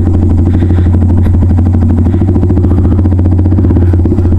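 Yamaha MT-15's single-cylinder engine, fitted with an aftermarket full-system exhaust, running loudly at steady low revs with no revving.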